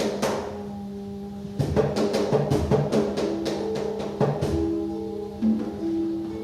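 Free-improvised music: congas struck in quick flurries over a steady held low note for the first four and a half seconds, then the drums stop and short pitched notes of a plucked string instrument carry on near the end.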